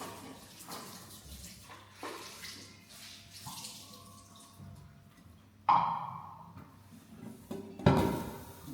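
Water splashing and dripping, with intermittent knocks of kitchenware and two louder ringing clanks in the second half, as of washing food in a basin.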